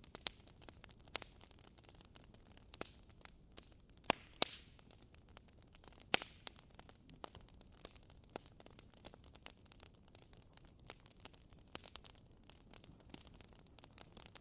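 Wood fire in a fireplace crackling: irregular sharp pops and snaps, the loudest about four and six seconds in, over a soft steady hiss.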